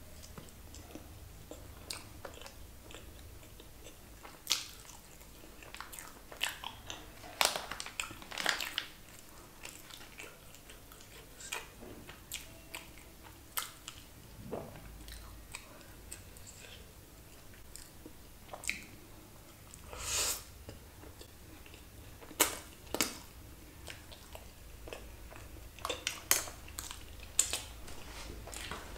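A person chewing mouthfuls of cheese- and sauce-covered loaded fries, with irregular short clicks and smacks of the mouth.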